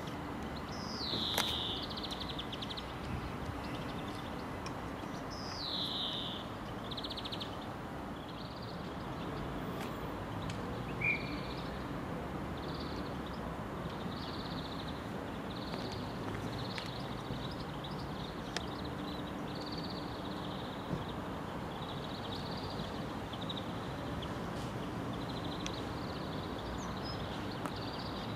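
Railway platform ambience: a steady low hum from an electric multiple unit easing into the platform and standing, under a bird chirping about once a second. The bird gives two falling calls in the first several seconds.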